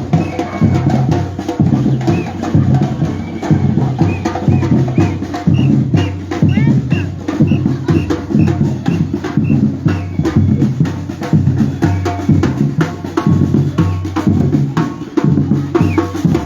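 Batucada drum group playing: bass drums and snare drums beating a dense, steady rhythm.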